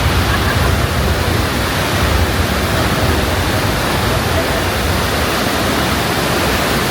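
Loud, steady rushing of water, with a low rumble underneath that dies away about five seconds in.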